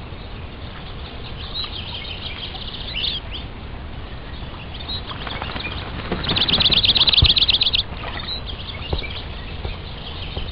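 Birds chirping over a steady background rush, with short high calls scattered throughout. About six seconds in comes one loud, rapid trill of about nine notes a second, lasting about a second and a half.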